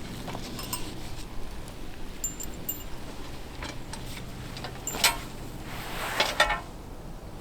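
Scattered light metallic clinks and taps, with a louder knock about five seconds in and a quick cluster of clinks a little after six seconds.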